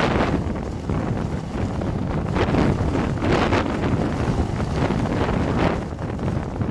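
Wind buffeting the microphone while a plastic rain suit rustles and flaps, with louder surges in several gusts.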